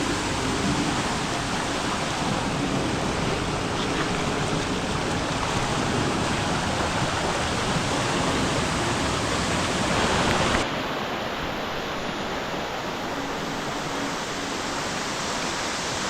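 Steady rush of a waterfall and fast-flowing river water. About ten seconds in the sound changes abruptly, becoming a little quieter and duller.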